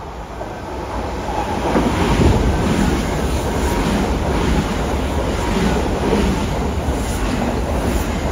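Kintetsu electric commuter train running past the platform: the rumble of the wheels and running gear builds over the first two seconds as it arrives, then holds loud and steady while the cars go by, with some clickety-clack over the rail joints.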